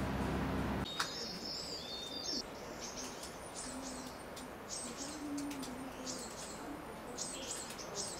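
A steady low hum stops abruptly with a click about a second in. Then small songbirds give repeated short, high chirps and a brief whistled note.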